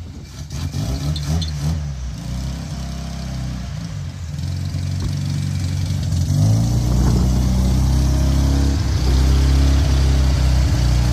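Mazda RX4's rotary engine running, first unevenly and then louder and steadier from about six seconds in. The long-stored engine is burning off the diesel it was filled with, running smoky.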